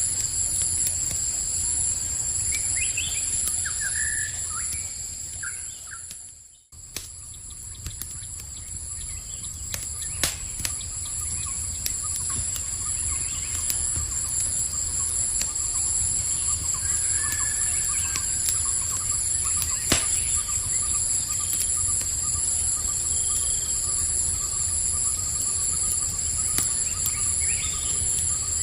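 Night ambience of a steady insect chorus, crickets trilling in high pulsing tones, with a few short bird chirps and two sharp pops from a crackling campfire over a low rumble. About six seconds in everything fades out and comes back a moment later.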